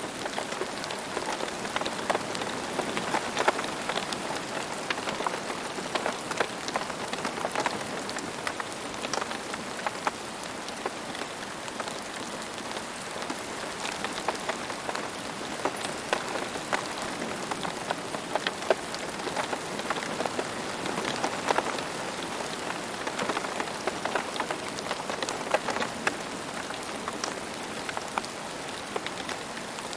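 Steady rain falling on a surface, a continuous hiss with many separate drop ticks and splatters scattered through it.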